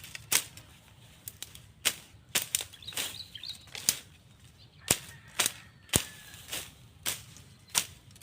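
A series of sharp clicks or snaps, about a dozen, irregularly spaced roughly one or two a second.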